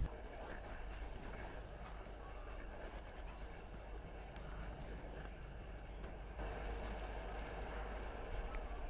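Goldcrests calling: many very high, thin notes, some sliding down in pitch and a few quick trills, scattered throughout over a steady background hiss.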